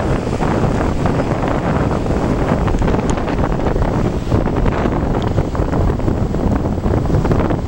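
Wind buffeting the microphone in a steady, loud rumble aboard a sailing yacht under way.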